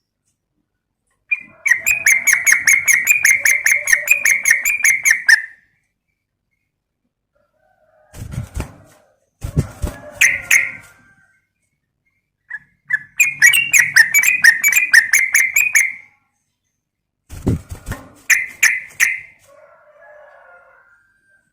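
Yellow-vented bulbul (trucukan) calling. Two long, rapid chattering phrases of about four seconds each, at roughly eight notes a second, with shorter bursts of notes between them.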